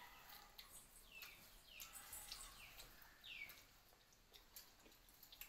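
Faint bird calls: a short chirp falling in pitch, repeated several times, over quiet outdoor background.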